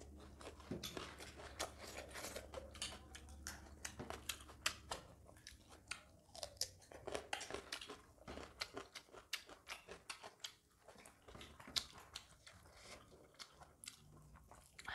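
Close-miked chewing and crunching of a rice, vegetable and chicken curry meal eaten by hand, with many short, irregular crunches and mouth clicks.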